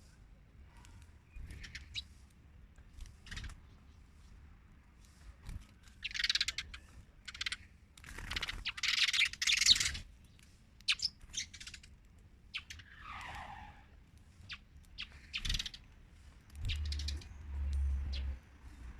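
Small birds chirping and squawking in short, scattered calls while feeding, with a louder, noisier flurry about eight to ten seconds in.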